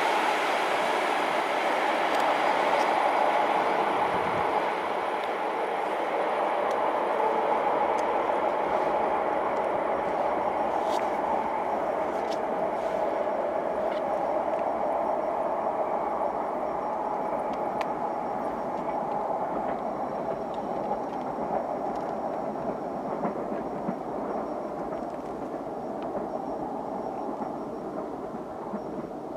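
Electric commuter train (EMU) running on the track with a steady whine over the rolling noise, the sound slowly fading.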